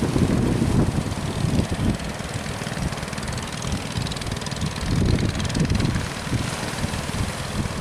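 Strong wind buffeting the microphone, an uneven low rumble that rises and falls in gusts over a steady hiss.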